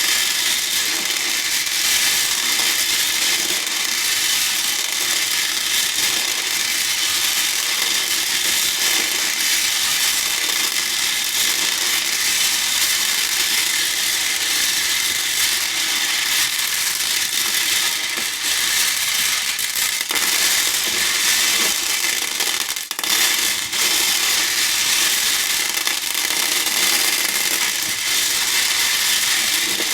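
Handfuls of small hair beads clattering in a bowl: a dense, steady rattle of bead on bead and bead on bowl, with a brief lull about three-quarters of the way through.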